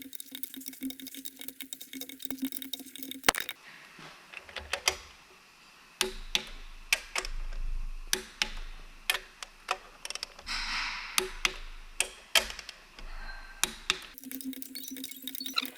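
Irregular sharp metallic clicks and clinks of hand tools and bolts during work on a truck diesel engine's cylinder head. A steady hum sounds under the first few seconds.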